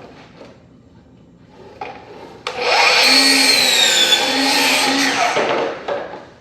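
Electric power tool running for about three and a half seconds as it cuts laminate flooring plank, its pitch wavering under load, starting abruptly a couple of seconds in and stopping near the end.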